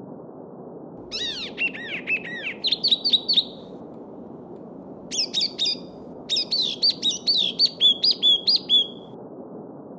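A songbird sings two phrases of quick, repeated whistled notes over the steady rush of a flowing stream.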